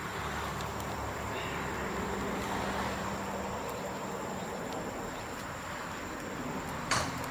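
Bamboo bonfire burning with a steady rushing noise and a single sharp crack near the end.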